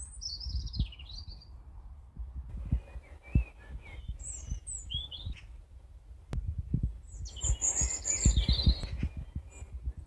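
Songbirds singing: quick, high warbling phrases and short chirps come and go, with the busiest song about three-quarters of the way through. Irregular low rumbling thumps sit underneath.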